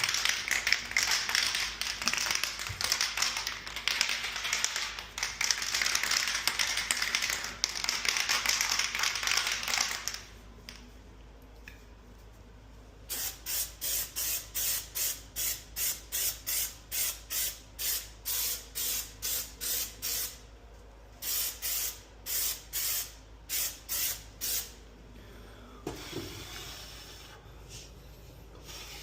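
Aerosol spray-paint can spraying a first coat of paint in a continuous hiss for about ten seconds. After a short pause comes a run of short, regular pulses, about two a second.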